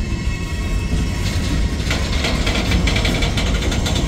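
Freight train boxcars rolling past: a steady low rumble of steel wheels on the rails, with metallic rattling and clanking joining in from about a second in.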